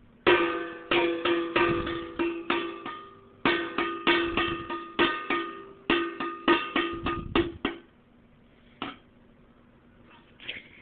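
Repeated banging on an object that rings with one pitched note: irregular sharp strikes, each fading out, in two flurries of about three and four seconds with a short pause between, then a single hit about nine seconds in.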